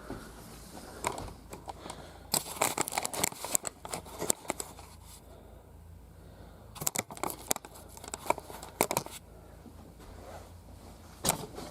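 Handling noise: two runs of crinkling and clicking, plastic toys or packaging being moved about. Each run lasts about two seconds, with one more click near the end.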